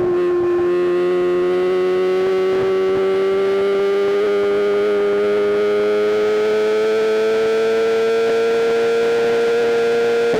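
BMW M1000RR's inline-four engine running hard at high revs under steady throttle, its high buzzing note climbing slowly and smoothly as the bike gains speed.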